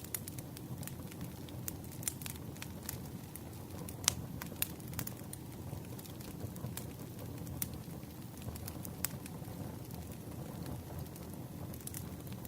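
Campfire of burning wood crackling: irregular sharp pops and snaps over a low, steady rush of the flames, with the loudest snaps about four seconds in.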